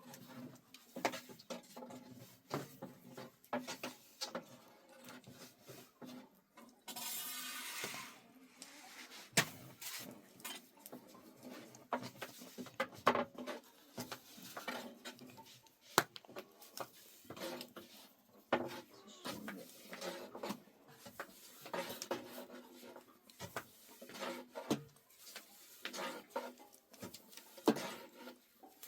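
Irregular light knocks and clatter, like household things being handled, with a short hiss lasting about a second some seven seconds in.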